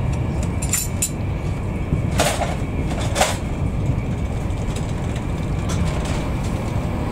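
Steady low rumble of a Class 91-hauled express train running at speed, heard inside a passenger coach, with wheels rolling on the rails. Two brief hissing rushes come about two and three seconds in, a second apart.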